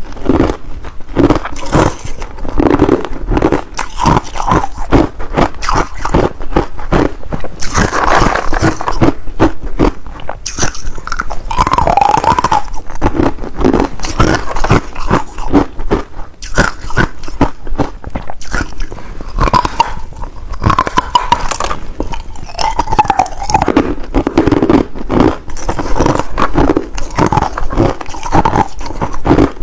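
Ice being bitten and chewed, with rapid crunching and cracking, close to the microphone.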